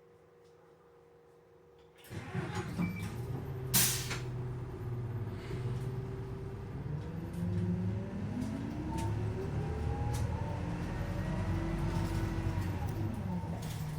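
Inside a city route bus: the cabin is quiet with a faint hum until about two seconds in, when the bus engine suddenly comes on loudly. A short sharp air-brake hiss comes near four seconds. The engine note then rises steadily as the bus pulls away and accelerates, dropping back near the end as it shifts up.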